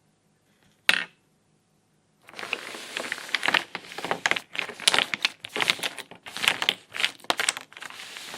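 A single sharp plastic click, then from about two seconds in plastic toy pieces or packaging being handled, with irregular crinkling and clattering.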